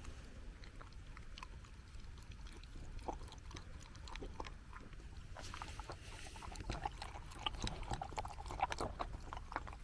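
A beagle eating its dinner: a run of small wet crunching and clicking sounds, getting busier about halfway through.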